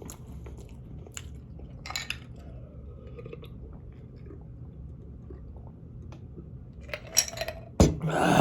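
Close-up eating sounds of spicy ramen noodles and sausages: quiet chewing and scattered small clicks of cutlery and dishes over a steady low hum, then a sharp knock and a louder noisy stretch near the end.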